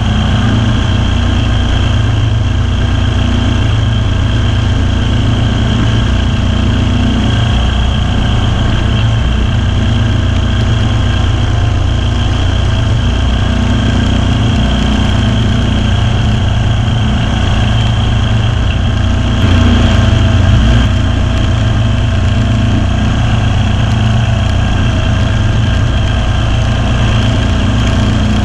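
Kawasaki V-twin engine of a Ferris zero-turn mower running steadily, loud and close, briefly louder about twenty seconds in.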